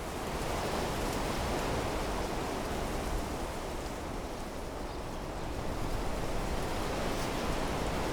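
Wind blowing through trees, a steady rushing that swells about half a second in, eases a little midway, and swells again in the last couple of seconds.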